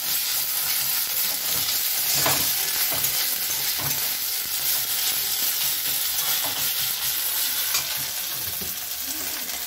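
Onions, green chillies and ginger-garlic paste sizzling in hot oil in a metal kadai, being fried until browned, with a metal spatula scraping and tapping against the pan every so often as it is stirred.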